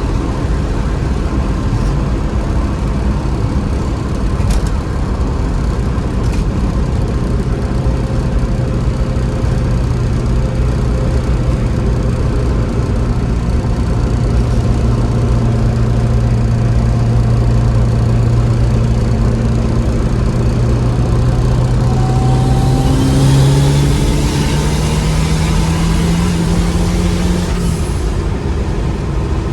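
Stage 2 tuned Cosworth engine in a Ford Cortina Mk3, running at a steady idle. About 22 seconds in it is revved up in stages and held at higher revs for several seconds, then falls back to idle.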